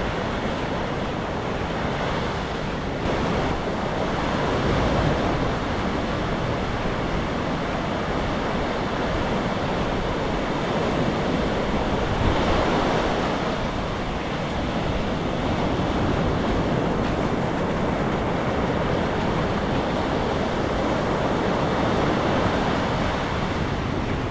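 Sea waves washing onto a beach, a steady rush of surf that swells louder about four seconds in and again about twelve seconds in, mixed with wind buffeting the GoPro's microphone.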